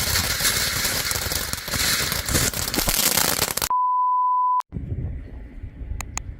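Loud rushing, crackling background noise that cuts off abruptly a little under four seconds in, replaced by a single pure electronic beep held steady for about a second. Quieter background noise then follows, with two sharp clicks near the end.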